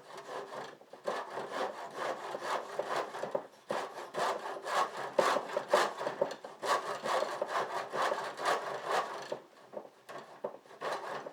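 Hand saw cutting through a garage door panel in quick, even back-and-forth strokes, pausing briefly near the end before starting again.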